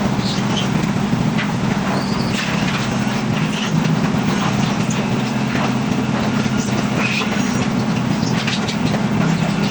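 A machine engine running steadily with an unbroken low hum, with scattered clinks and scrapes of work over it.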